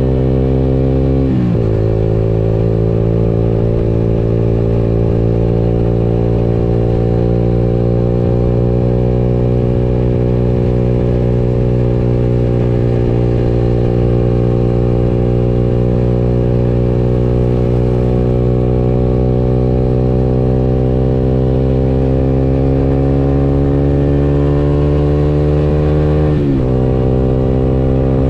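Motorcycle engine running on the move, its pitch climbing slowly as it gathers speed, with two sharp drops in pitch, about a second in and near the end, as it shifts up a gear.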